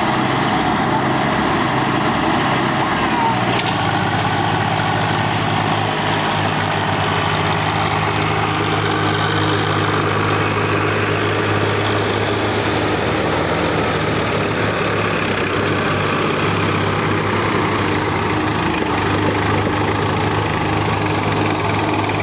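Swaraj 744 tractor diesel engine running steadily, its note firming up about three and a half seconds in.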